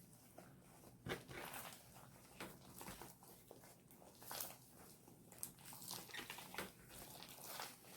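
Faint, irregular squishing and sticky clicks of fluffy slime being kneaded and squeezed by hand.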